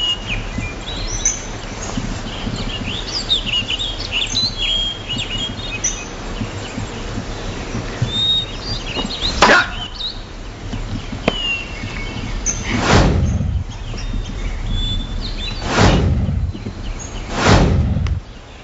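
Small birds chirping in quick high calls, with one sharp knock about halfway through and three louder rushing sounds, each about half a second long, in the last third.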